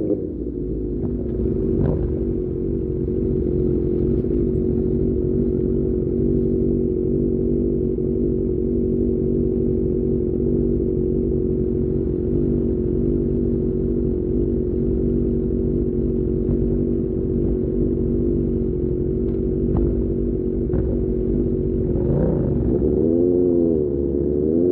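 QJMotor SRK600 inline-four with an Austin Racing exhaust running at a steady engine speed, with a quick throttle blip up and down near the end.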